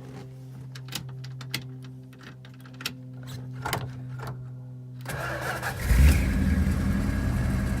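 A steady buzzing tone with a few clicks, then about five seconds in the starter cranks briefly and the 1978 Dodge Tradesman B300's 400 cubic inch V8 fires right up on a cold start, catching with a burst of revs and carrying on running.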